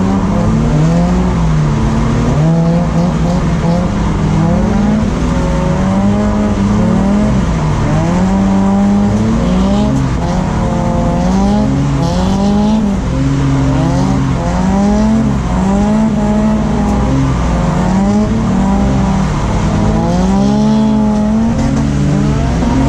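BMW E36 engine revving hard and dropping back over and over while drifting, its pitch climbing and falling every second or two.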